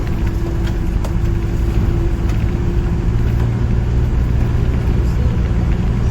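Steady low rumble of a motor vehicle running, engine and road noise.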